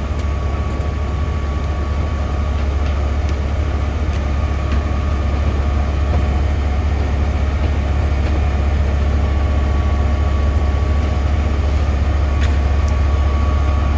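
Diesel engines of fire apparatus running at the scene: a steady low rumble with a thin, constant whine above it.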